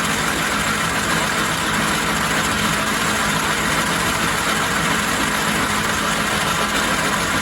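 1944 Logan 210 metal lathe running steadily at about 360 RPM, its three-phase motor driven by a variable frequency drive: an even hum with a couple of steady tones, the spindle turning without a cut being taken.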